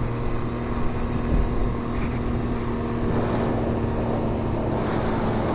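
Can-Am Ryker Rally Edition three-wheeler's engine running steadily while riding, with wind noise rushing past.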